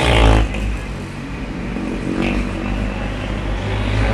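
Ice speedway motorcycles with 500 cc single-cylinder engines racing around the ice track. A loud rising engine note drops sharply about half a second in, and a steady lower engine drone follows as the bikes run on.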